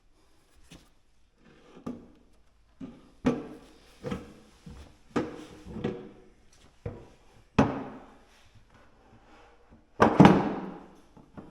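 Irregular wooden knocks and thunks, about ten of them, each with a short ringing decay, as the wooden base and table are handled and set onto the lathe bed; the loudest is a double knock near the end.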